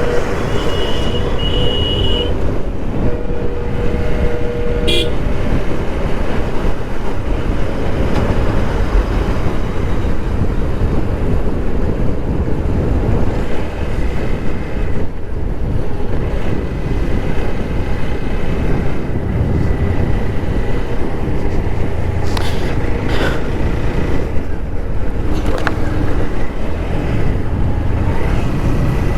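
Wind and road rush of a motorcycle riding at highway speed, with vehicle horns sounding: one held horn note in the first two seconds and another from about three to five seconds in.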